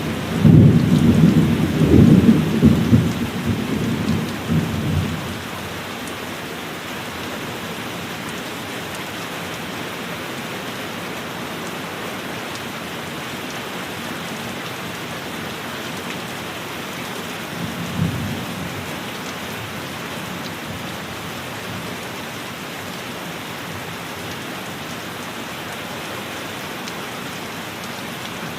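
Heavy rain falling steadily, with a long low rumble of thunder lasting about five seconds at the start and a shorter, fainter thunder rumble about 18 seconds in. Another peal begins right at the end.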